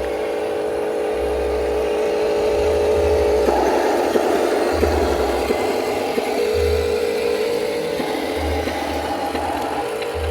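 Electric motors and gearboxes of radio-controlled construction models whirring, with the pitch shifting as they change speed about three and a half, six and eight seconds in.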